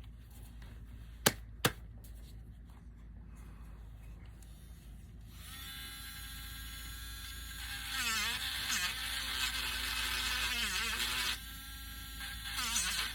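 Small handheld rotary tool running with a steady high whine, sanding wood; its pitch dips briefly several times as the bit bears into the wood. Two sharp clicks come about a second in, before the tool starts.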